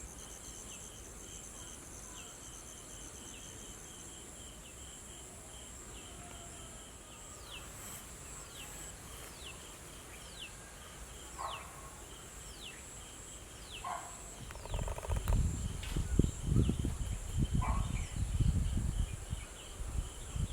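Garden insects keep up a steady high shrill with a pulsing chirp. Through the middle, a bird gives a run of short whistled calls, each falling in pitch. Near the end, loud low rumbling thumps come in over them.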